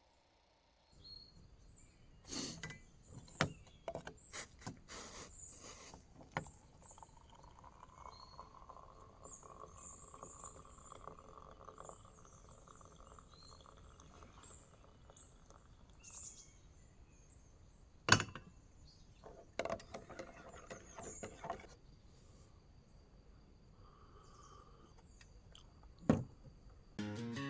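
Quiet outdoor ambience with small birds chirping, broken by occasional sharp knocks and clicks, the loudest about two-thirds of the way in and again near the end.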